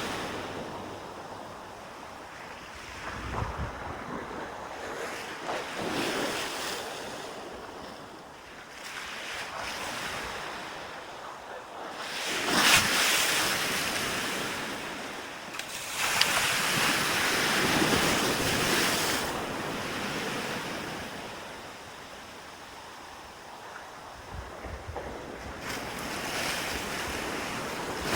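Sea waves breaking and washing up the beach in slow, swelling surges, the loudest about twelve seconds in. Wind rumbles on the microphone at times.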